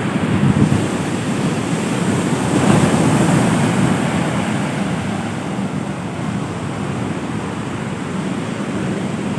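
Sea surf washing onto a beach, swelling about three seconds in, with wind buffeting the microphone.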